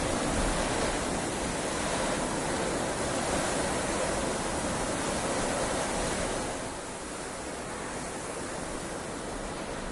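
Heavy rain falling steadily, a dense even hiss that eases slightly about six and a half seconds in.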